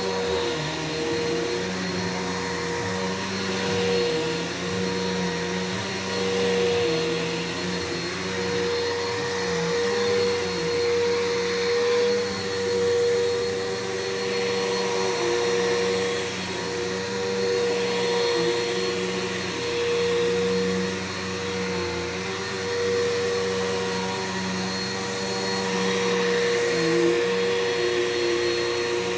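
Bissell PowerForce 6583-F bagless upright vacuum cleaner running while vacuuming: a steady motor hum and airflow noise that grows louder and softer every second or two as it is pushed back and forth.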